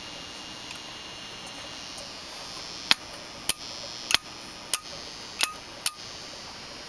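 Five-tube superheterodyne radio hissing from its speaker, then popping sharply six times, roughly every half second, a few pops trailed by a brief tone. The set has strong abnormal oscillation around the tuning point.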